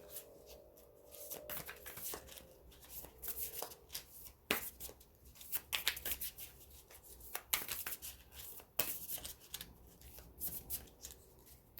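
A deck of large tarot cards being shuffled and handled: irregular snaps, taps and rustles of the cards, a few sharper clicks standing out through the middle.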